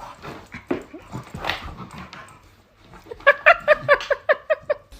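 A dog yipping: softer scattered noises, then about three seconds in a quick run of short, high yips at roughly six a second.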